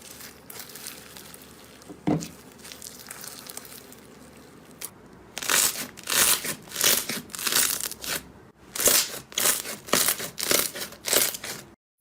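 Slime being worked by hand, crackling and crinkling. From about five seconds in come loud, repeated squeezes, about two a second, that stop abruptly just before the end.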